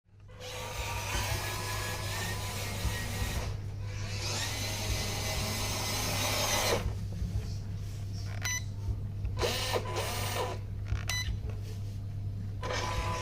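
Electric motor and gear drive of a JXC LC80 RC car whining as it runs, in three spells with quieter gaps between them, the last starting near the end, over a steady low hum. This is the running noise left after damping material was fitted.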